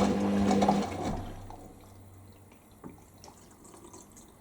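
Hoover washing machine humming steadily, cutting off about a second in, leaving faint trickling water in the drum with a small click near the end.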